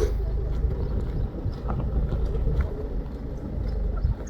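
BMW 530d's diesel engine running with a steady low rumble, with a few faint clicks over it.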